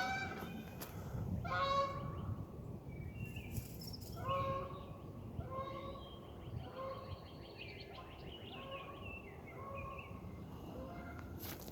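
Canada geese honking: a long series of short honks, some overlapping, repeated every second or so.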